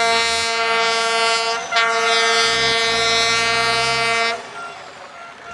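Air horn blown in two long blasts at one steady pitch, with a short break about a second and a half in; it stops about four seconds in. An engine runs underneath during the second blast.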